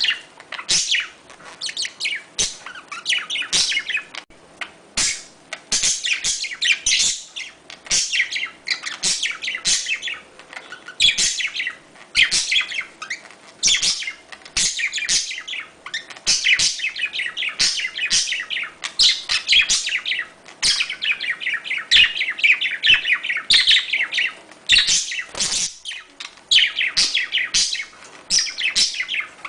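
Budgerigars chattering and warbling in the courtship calls they use when mating: a fast, almost unbroken stream of high chirps with sharp clicks mixed in and only brief pauses.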